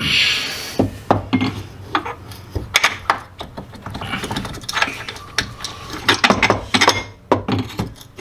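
Irregular metallic clinks, clanks and knocks of tools and car parts being handled while a rear differential is fitted, opening with a short burst of hiss.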